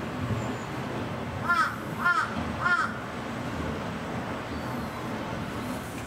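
A bird gives three short, harsh calls about half a second apart, over a steady low background noise.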